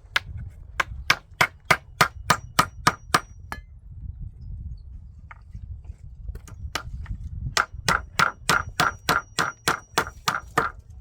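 Steady hammering, about three blows a second, with a light metallic ring after each strike. There are two runs of hammer blows with a pause of a few seconds between them.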